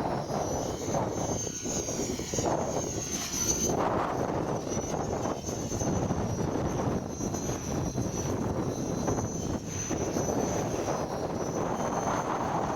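Align T-REX 500 ESP electric RC helicopter in flight: a high motor and rotor whine that wavers slightly in pitch, rising about two to three seconds in as the throttle changes. Gusty wind buffets the microphone underneath.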